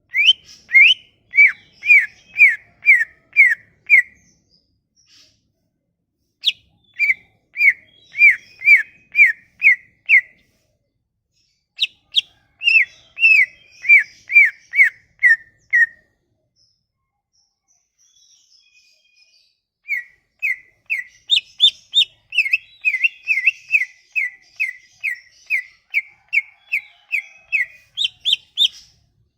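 Songbird singing runs of clear whistled notes, each note falling slightly in pitch, about two to three a second, in four runs broken by short pauses.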